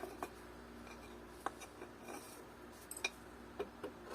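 A few light, scattered clicks and clinks of small metal hardware, such as nuts and washers, being handled and sorted. The sharpest click comes about three seconds in.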